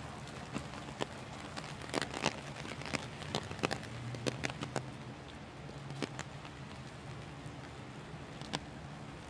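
Heavy rain falling on wet pavement and trees, with irregular sharp taps of nearby drops that come thickest a couple of seconds in. A low steady hum runs underneath.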